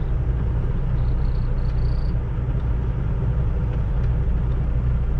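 Semi-truck's diesel engine rumbling steadily, heard inside the cab.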